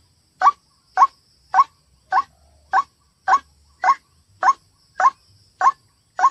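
White-breasted waterhen (ruak-ruak) calling: a steady run of short, rising "kwak" notes, a little under two a second, as played from a recorded lure track. A faint high steady hiss lies underneath.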